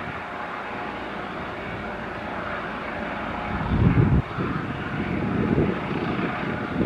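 Airliner engines running: a steady spread of engine noise, with a low rumbling swell about four seconds in and another near the end.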